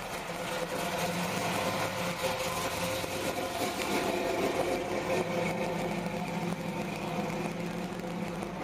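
Chevrolet Caprice V8 running as the car pulls away and drives slowly past, a steady engine drone that grows a little louder in the middle as it passes close.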